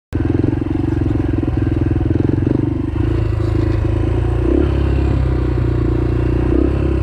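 Yamaha TT-R125 dirt bike's single-cylinder four-stroke engine running at a steady low idle, while the rider works the gear shifter trying to find neutral.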